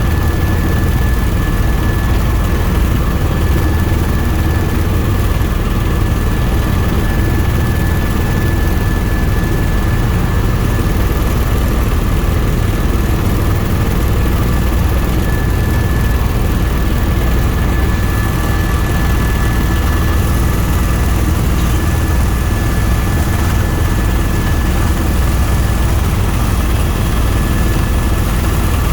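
Tour helicopter in flight: a steady, loud drone of rotor and engine with a constant high whine.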